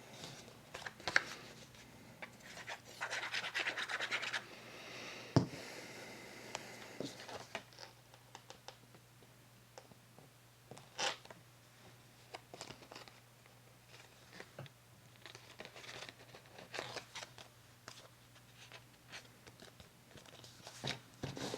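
Paper being handled and rubbed down on a work surface, with scattered light taps and clicks, a sharp knock about five seconds in, and stretches of scratchy rubbing early on.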